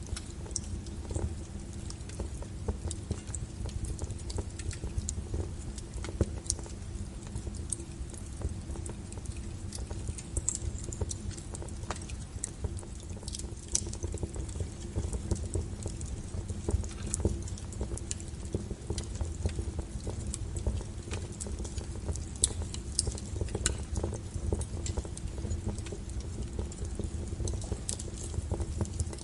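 Wood fire of burning logs in a fireplace: a steady low rumble of flames with frequent, irregular sharp crackles and pops.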